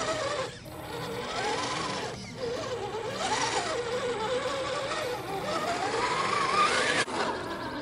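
Redcat Gen8 Scout II RC crawler's electric motor and metal-geared drivetrain whining, its pitch wavering with the throttle. It drops out briefly about half a second in and again after two seconds, then climbs to a higher whine and cuts off suddenly near the end.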